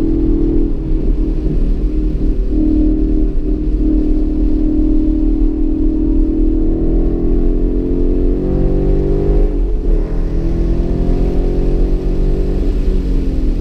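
2015 Mustang GT's 5.0-litre V8 heard from inside the cabin under hard acceleration on track. The engine note climbs steadily, then breaks and drops about ten seconds in at an upshift, and the engine pulls on at the lower pitch.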